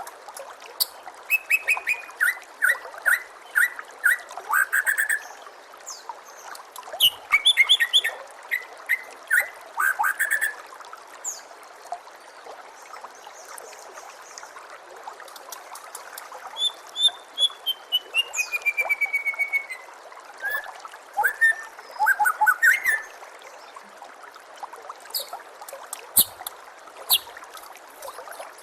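White-rumped shama singing in bursts of varied, rapid whistled phrases, with a long descending run of notes a little past the middle. This is heard over a steady trickle of running water.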